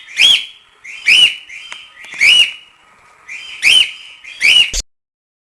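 A bird calling repeatedly: five short, sharp calls about a second apart, each rising and falling in pitch, stopping abruptly near the end.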